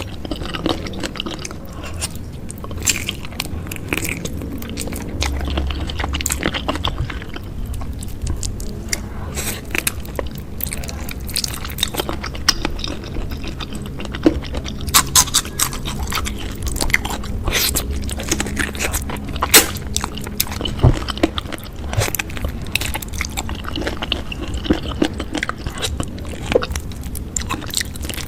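Close-miked eating: a person chewing and biting with many crisp crunches, wet clicks and crackles.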